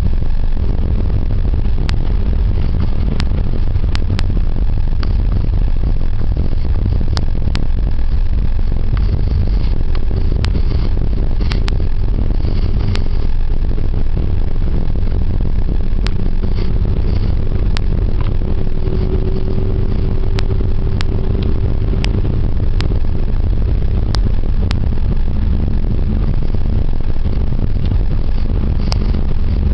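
Car driving on a snow-covered road: a steady low rumble of engine and tyres, with scattered sharp clicks now and then.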